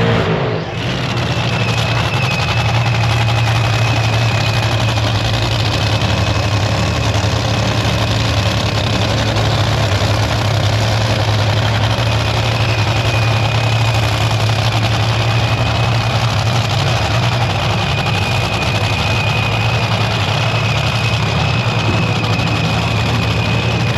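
An engine running steadily, a low even drone with a thin high whine over it.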